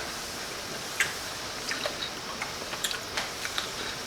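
Faint scattered clicks and ticks over a steady background hiss, one sharper click about a second in.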